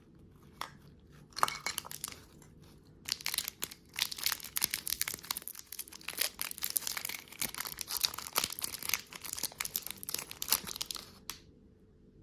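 Close-up crunching and crinkling of candy, a few separate crackles at first, then a dense run of crackles from about three seconds in that stops shortly before the end.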